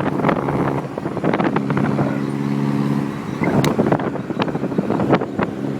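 Vehicle engine running at a steady pitch while on the move, with wind buffeting and crackling on the microphone.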